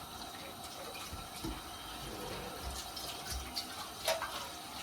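Water running steadily, with a few light clicks and knocks, the clearest about four seconds in.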